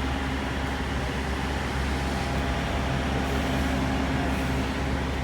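Steady rumble of road traffic and vehicle engines, with a low hum and no distinct events.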